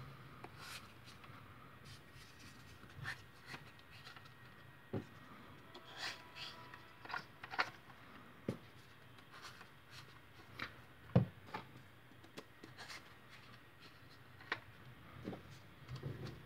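Foam darts being loaded into the barrels of a 3D-printed 7-shot Nerf Hammershot cylinder: irregular faint plastic clicks and taps, with one sharper click about two-thirds of the way through.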